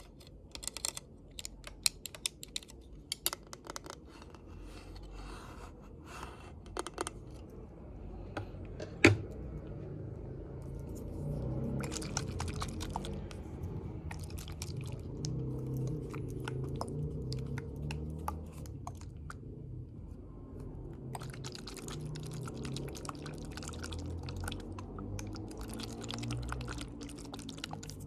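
Close-miked ASMR trigger sounds: scattered light taps and clicks, one sharp knock about nine seconds in, then a continuous low rubbing, scratching sound with crisp clicks over it.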